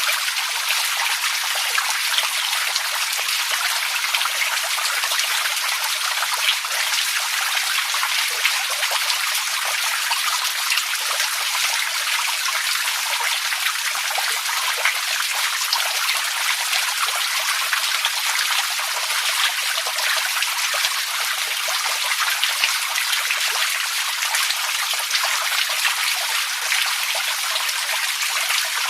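Steady running water: a continuous trickling and splashing, full of fine droplet patter, that keeps an even level without pause.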